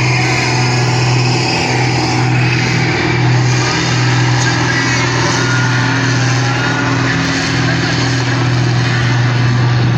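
Engine of a pulling vehicle running hard under heavy load as it drags the weight sled, holding a fairly steady pitch.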